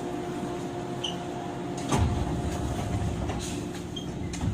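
Inside a 103 series electric commuter car: a steady hum with a heavy low thud about two seconds in, after which a low rumble grows louder, and another thud near the end.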